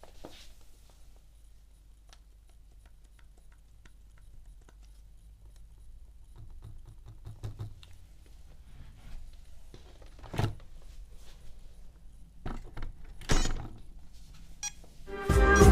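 Faint clicks and light knocks of a dead ILIFE V7 robot vacuum being handled, its buttons pressed with no response from the flat battery, then a couple of louder knocks as it is set down on its charging base. Guitar music comes in loudly near the end.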